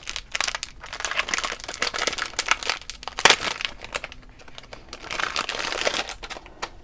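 Packaging crinkling and rustling as ribbon spools are handled and unwrapped, with one sharp snap a little past three seconds in.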